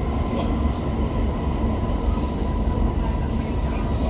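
First-generation Brussels metro train (M1–M5 series) running at a steady pace: a continuous low rumble with a steady high whine held at one pitch.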